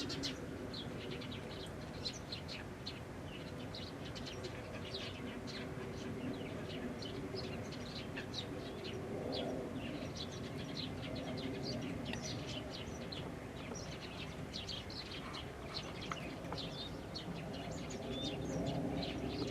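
Wild birds chirping: a busy stream of short, high chirps, several a second, over a steady low background rumble.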